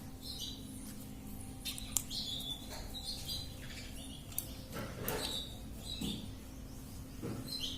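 Ringneck parrot giving short, soft high chirps at irregular intervals, with a few small clicks, over a faint steady hum.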